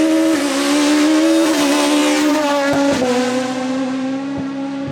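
Rally car engine held at high revs, its pitch steady, with a quick gear change about three seconds in. It gets quieter near the end.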